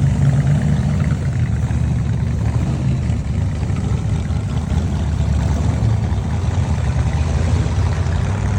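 Hot rod engine idling with a steady low exhaust rumble.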